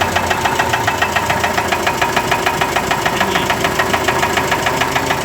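Evotech A274 2.7-litre petrol engine idling with a steady, even knock. The knock comes from badly scuffed piston skirts with stuck top compression rings.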